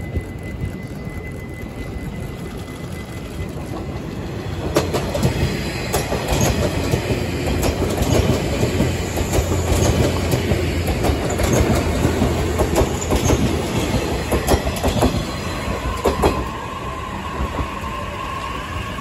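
A 185-series electric train running through a station without stopping. It passes with a heavy rumble and its wheels clack sharply over the rail joints, building about four seconds in and easing about sixteen seconds in. Near the end a steady whine from another electric train moving alongside is heard.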